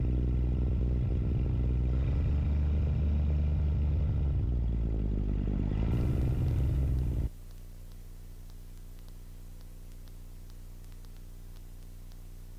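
Tecnam Sierra light sport airplane's Rotax 912 engine running, heard inside the cockpit on short final, its pitch dipping and rising as the power is adjusted. About seven seconds in, the sound drops suddenly to a much quieter steady hum.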